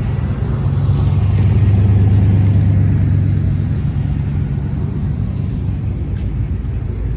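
A car engine running with a low, steady drone that grows louder about two seconds in and eases off again.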